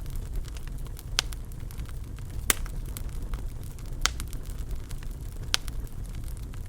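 Wood fire burning in a fireplace: a steady low rumble of flames with scattered sharp crackles and pops, four louder snaps among many small ones.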